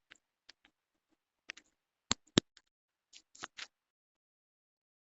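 Scattered short clicks and taps on a computer keyboard or mouse, about a dozen, irregularly spaced over the first three and a half seconds and then stopping, heard through a video call's audio.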